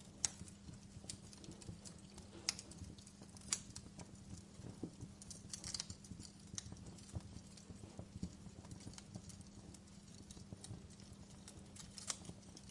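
Wood fire crackling: irregular sharp pops and snaps, a few louder ones, over a low steady rumble of the burning fire.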